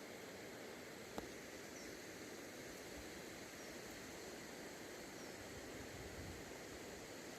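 Faint, steady outdoor background noise, with a few faint short high chirps repeating about every two seconds and a single sharp click about a second in.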